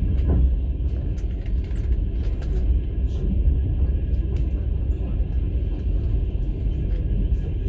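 Steady low rumble of a moving passenger train heard from inside a sleeper carriage, with scattered faint clicks and rattles over it.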